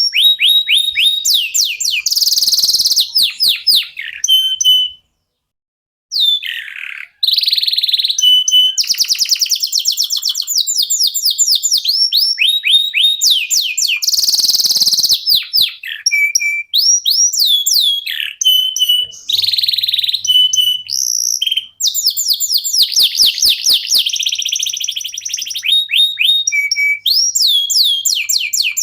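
Local domestic canary song: long, loud runs of fast repeated downward-sweeping notes and rolling trills, with a short break about five seconds in.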